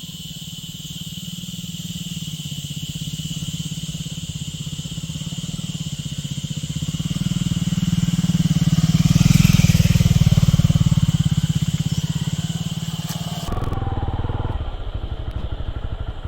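Motorcycle engine running, growing louder to a peak about halfway through and easing off again. A steady high-pitched drone sits over it until the sound changes abruptly near the end.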